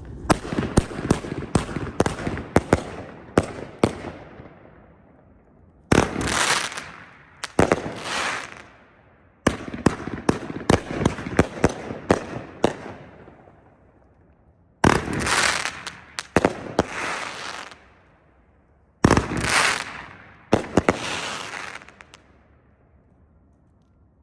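A 500g 25-shot consumer fireworks cake firing: a quick run of sharp shots, then single loud bangs a second or two apart, a second quick run, and more single bangs, each trailing off in a fading hiss, until the cake finishes near the end.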